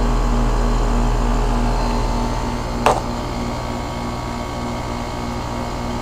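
2001 Trane XE1000 Weathertron heat pump's outdoor unit running in heating mode with frost on its inner coils: a steady hum of compressor and condenser fan with a faint pulsing tone. A single sharp click about three seconds in.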